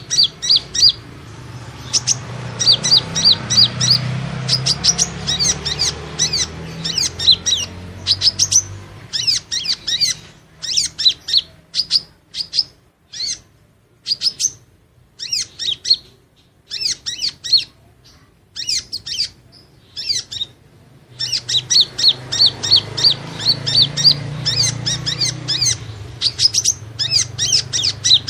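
Kolibri ninja sunbird song played as a trapping lure: rapid series of high, thin chirps. They run in dense trilling bursts at first, thin out to scattered chirps through the middle, and turn dense again about 21 seconds in.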